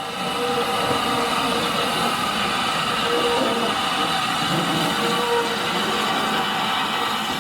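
Ffestiniog Railway Double Fairlie steam locomotive David Lloyd George and its narrow-gauge train arriving, a steady rush of train noise with thin, held high tones over it.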